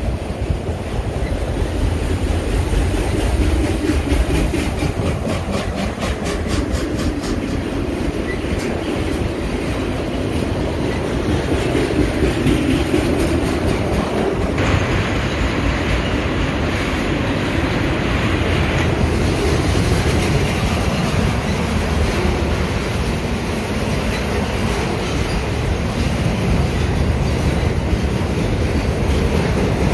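Freight train cars, autoracks and then loaded flatcars, rolling past: a steady rumble of steel wheels on rail, with a run of rhythmic clicks from the wheels crossing rail joints several seconds in.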